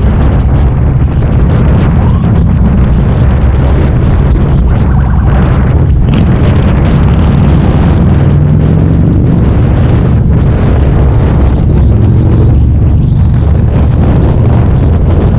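Loud Harley-Davidson V-twin engine running steadily while riding, with wind buffeting the microphone.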